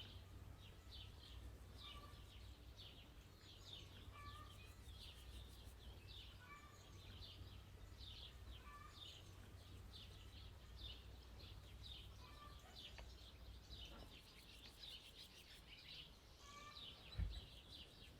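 Faint birdsong: many quick chirps from small birds, over a steady low rumble of outdoor background noise. A single thump sounds near the end.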